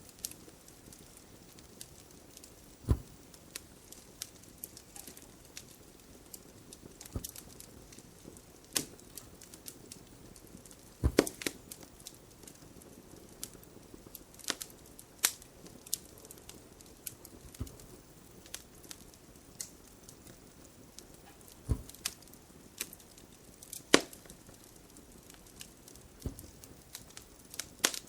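Wood fire crackling: irregular sharp pops and snaps over a faint steady hiss, with a few louder pops scattered through.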